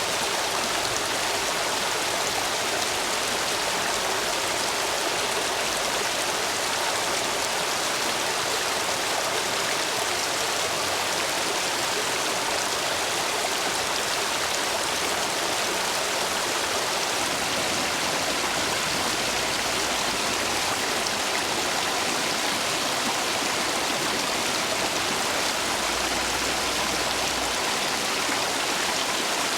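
Stream water rushing steadily over and between stepping stones, swollen with high flow after heavy rain.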